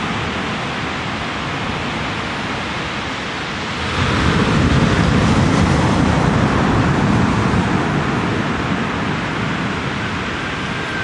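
A steady rushing wind noise, swelling louder for a few seconds in the middle. Near the end a male eastern whipbird's long, even whistle begins.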